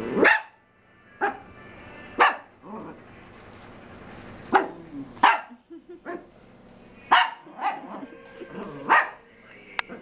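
Morkies (small Maltese–Yorkshire terrier mix dogs) barking: about ten short, sharp, high barks at irregular intervals.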